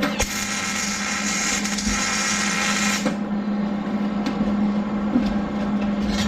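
Electric power tool motor running steadily at constant speed during broken-bolt removal on an engine head, with a harsher grinding hiss over roughly the first three seconds.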